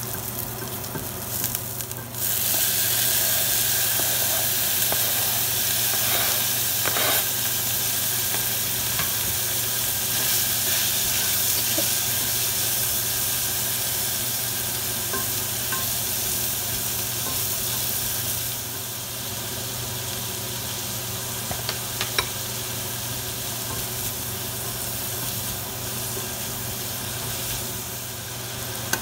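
Spices, garlic and curry leaves frying in hot oil in a saucepan, sizzling steadily while a spatula stirs and scrapes the pan. About two seconds in the sizzle jumps suddenly louder as chopped tomatoes go into the hot oil, easing off somewhat later on; a few light taps of the spatula sound here and there.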